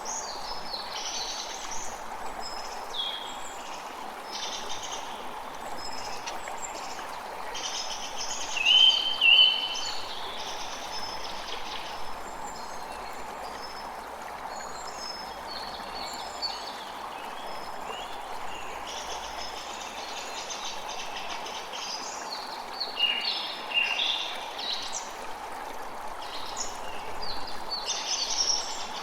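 A creek running steadily, with small birds chirping and singing over it throughout; the loudest calls come about nine seconds in and again a little past twenty seconds in.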